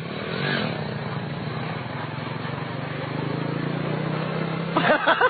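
Motorcycle engine running at a steady speed, its pitch creeping up slightly partway through.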